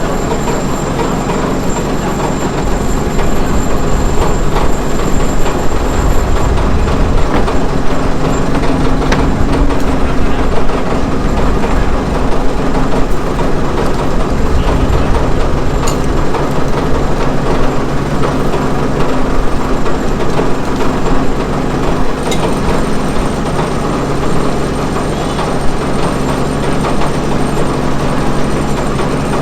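An engine running steadily at a constant pitch, loud and continuous with a low rumble.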